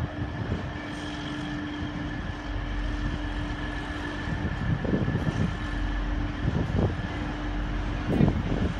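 Grand Central Class 180 diesel multiple unit running past over pointwork, a steady engine hum over a low rumble, with a few heavy knocks from the wheels on the crossings in the second half.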